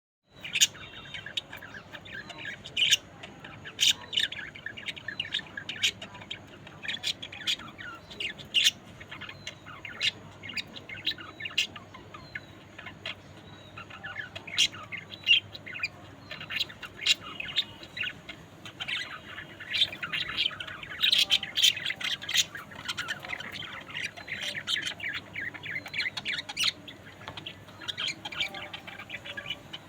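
Budgerigars chattering and warbling continuously, with many sharp, loud chirps standing out, busiest about two-thirds of the way through.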